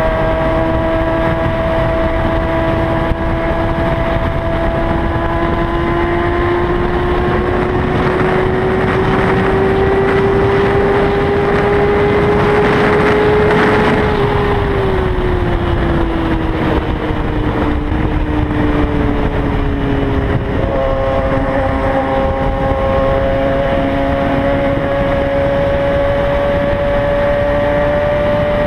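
Kawasaki ZX-6R's inline-four engine at highway speed, heard from the rider's seat. Its note climbs slowly for about fourteen seconds and then eases off. About twenty seconds in it changes pitch at a gear change and then holds steady, with wind rushing over the microphone, loudest at the top of the climb.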